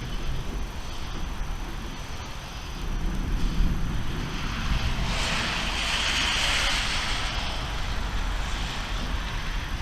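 Thunderstorm noise: a steady low rumble under the hiss of rain, which swells up a few seconds in and fades again near the end.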